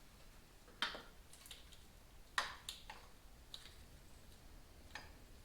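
A few scattered sharp clicks and light taps, about six in all, with the two loudest about a second in and near the middle: small parts being handled during motorcycle work.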